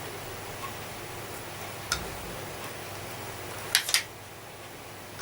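Sharp clicks of small hard parts being handled and fitted on a vacuum cleaner's headlamp: one click about two seconds in, then a quick run of three clicks near four seconds.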